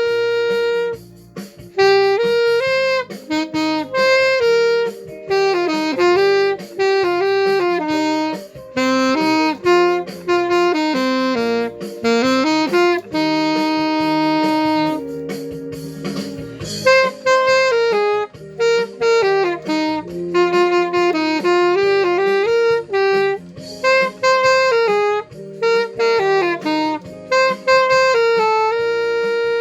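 Saxophone playing a flowing melody over a cha-cha accompaniment, with several notes held for a second or more.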